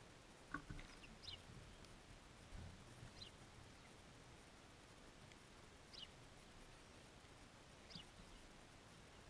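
Faint, short high chip notes from a wild bird at the feeder, repeated every two to three seconds, with a few soft low knocks in the first few seconds.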